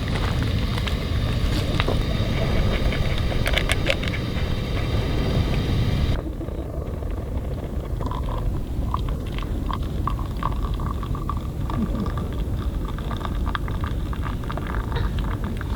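Steady low wind rumble on the microphone, with scattered crackles and clicks on top, typical of an outdoor campfire cooking scene. About six seconds in the sound changes abruptly as the hiss drops away, and lighter clicks continue.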